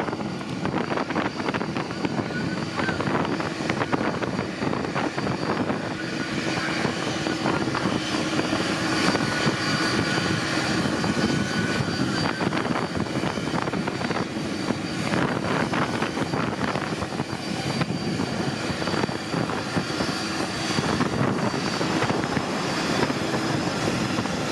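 Jet airliner engines running: a steady, loud rush of noise with faint steady high tones over it.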